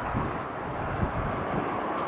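Aircraft engines running with a steady rush, with gusts of wind buffeting the microphone.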